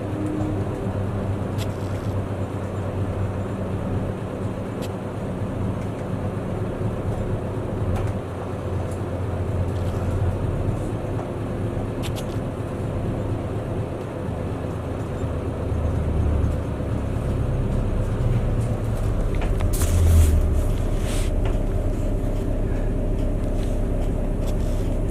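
Bus engine and road noise heard from inside the passenger cabin while driving. The engine note shifts up and down several times as the bus changes speed, with a stronger low rumble about twenty seconds in.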